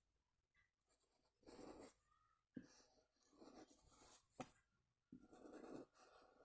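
Faint rubbing strokes of a kolam being drawn by hand on the floor: a few separate drawing strokes, each about half a second to a second long, with one sharp tap a little past the middle.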